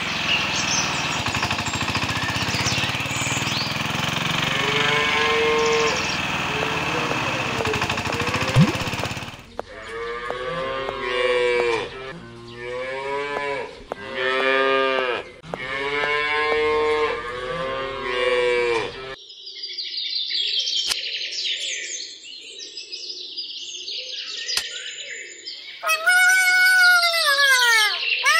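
Water pouring steadily from a small pump's spout into a tank, then cattle mooing in a run of about five long calls. After them come faint chirps and, near the end, a loud sound with falling pitch.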